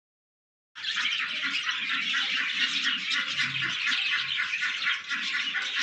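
Parrot chattering: a dense, continuous run of rapid high-pitched calls that starts abruptly just under a second in.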